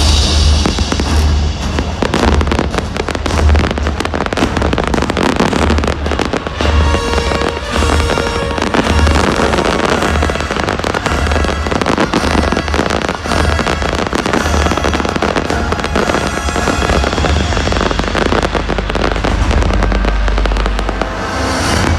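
Fireworks bursting in quick succession over loud show music with a pulsing bass beat.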